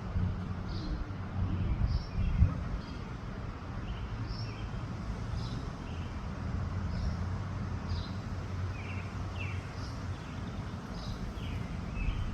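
Wind buffeting the microphone with a steady low rumble, while a small bird repeats short high chirps every half second to a second.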